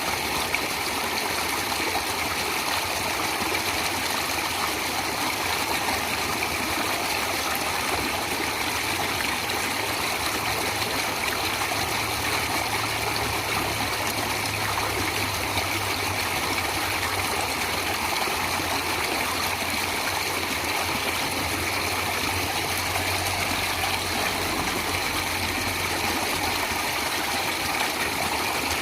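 Flowing water of a stream, a steady unbroken rushing and trickling.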